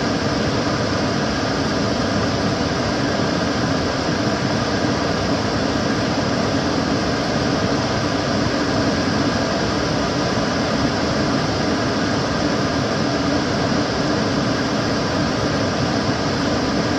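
Kitchen cooker hood extractor fan running steadily: an even rushing of air with a low hum, unchanging throughout.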